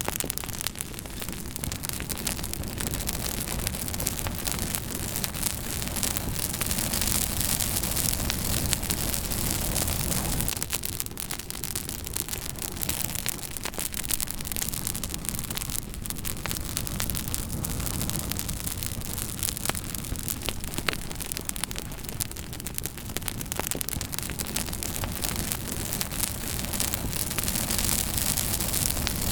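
Campfire burning, with dense small crackles and pops over a steady hiss and low rumble.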